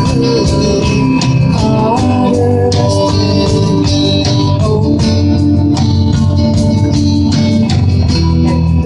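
A rock band playing, with sustained organ-like keyboard chords over bass, guitar and drums keeping a steady beat.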